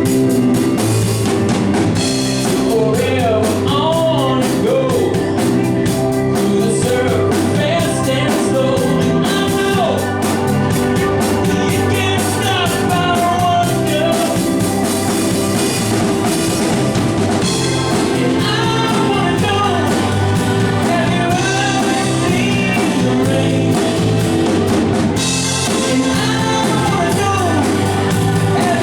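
Live band playing a rock-and-roll song: a singer over drums, guitar and keyboard, with a steady beat.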